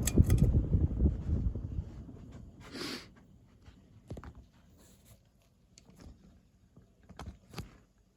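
Low rushing rumble of air from a ceiling fan fading away over the first two to three seconds, followed by a few faint scattered clicks and taps.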